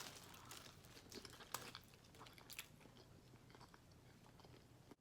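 Faint chewing of a boiled potato from a seafood boil, with scattered small wet clicks of the mouth.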